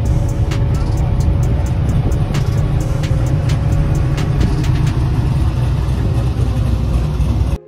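Loud car engine at a hot rod show, running with a heavy low exhaust rumble and scattered sharp crackles, cut off suddenly near the end.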